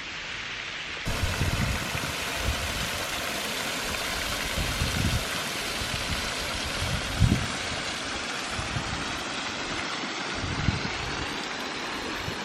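Water rushing down a rocky brook of small waterfalls and cascades: a steady, dense hiss that gets louder about a second in. Several short low thumps sound over it.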